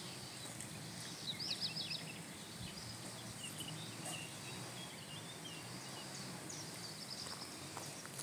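Songbirds singing: a quick run of about five high descending notes about a second and a half in, and scattered short high chirps, over a steady low background noise.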